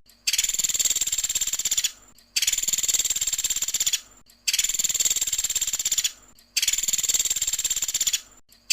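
Pelatuk sampit woodpecker giving its rapid, high-pitched trilled 'tembakan' call four times, each trill about a second and a half long, with short gaps between, and a fifth trill starting at the very end.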